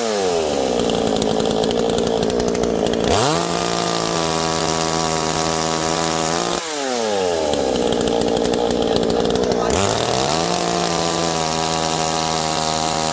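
Chainsaw running at full throttle, its engine pitch sagging and recovering twice as the chain works through dead wood.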